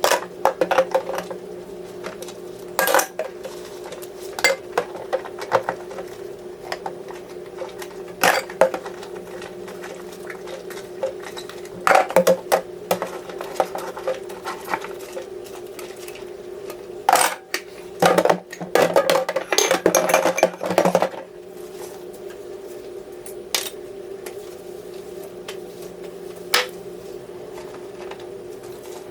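Dishes, pots and pans clattering and clinking in scattered knocks, with a busier run of clatter about two-thirds through, over a steady low hum.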